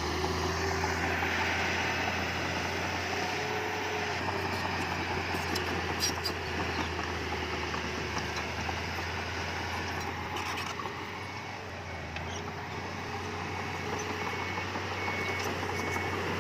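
Heavy diesel earthmoving machinery running steadily with a deep engine hum, with a couple of brief knocks. Near the end a high repeating beep starts, about two beeps a second.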